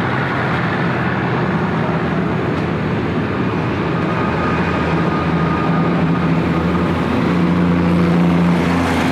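An engine running steadily with a low hum, growing a little louder a couple of seconds before the end.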